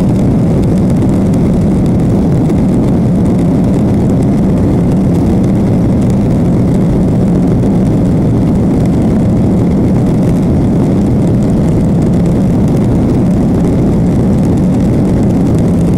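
Boeing 737 jet engines and airflow heard inside the passenger cabin after takeoff: a loud, steady, low roar.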